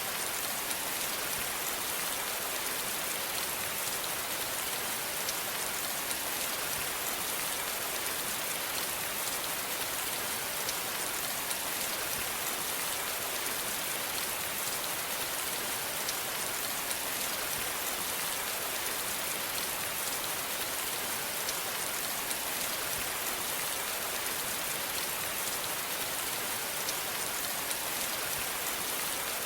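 Steady rain falling on a surface: a constant hiss of many fine drops, even and unchanging throughout.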